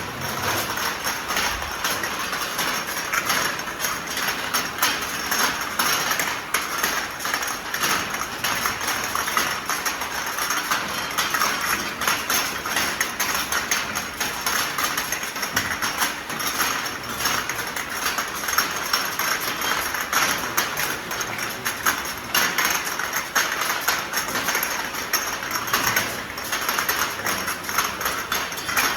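Ultrasonic glass-bottle washing machine running, with a continuous dense clatter of glass bottles clinking and rattling as they are carried through it.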